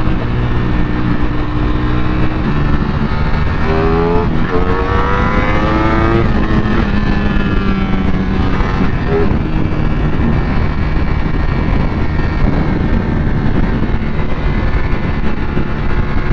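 Ducati Panigale V4 sportbike's V4 engine accelerating. Its pitch climbs, drops at an upshift about four seconds in, climbs again, then settles to a steady cruise. A steady rush of wind and road noise runs underneath.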